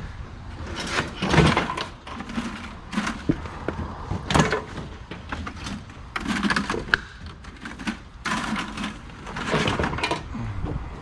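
Scrap metal clattering as pieces are dropped or tossed into bins, a run of separate crashes a second or two apart.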